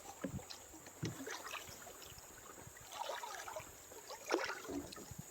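Canoe paddling on a river: faint paddle splashes and dripping water, with a few soft thumps, the strongest about four seconds in.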